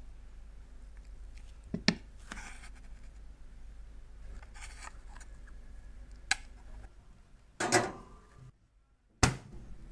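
Close-up handling of small cosmetic items: a few sharp clicks and short scraping sounds over a low steady hum, with a brief dropout just before the last click.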